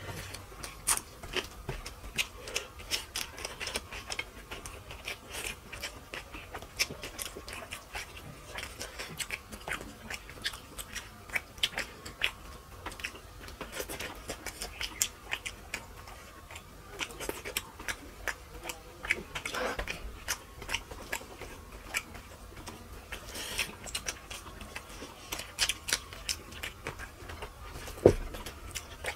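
Two people chewing and lip-smacking as they eat fish curry and rice by hand: an irregular run of short, wet mouth clicks and smacks, with one sharp knock near the end.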